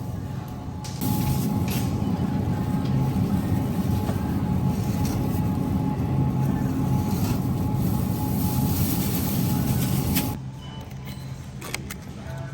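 A steady mechanical rumble with a low hum. It gets louder about a second in and drops away suddenly about ten seconds in.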